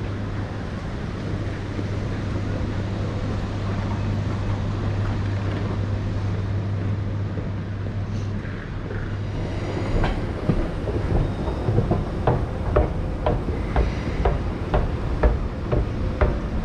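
ÖBB Railjet train running on the track with a steady low hum. From about ten seconds in, the wheels click regularly over rail joints, about two to three times a second.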